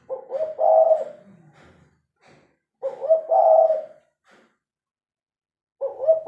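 Spotted dove (tekukur) cooing: three phrases of a few quick notes running into a longer held note, about three seconds apart.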